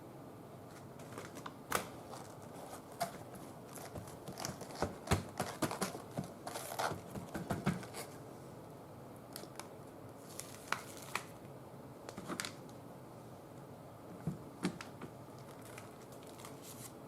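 Paper and a stencil being handled and pressed on a gelli printing plate: scattered rustles, taps and clicks, busiest in the first half and sparser toward the end.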